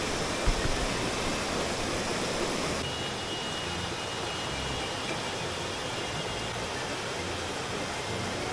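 Steady rush of flowing water, an even hiss with no pauses, with faint thin high tones joining about three seconds in.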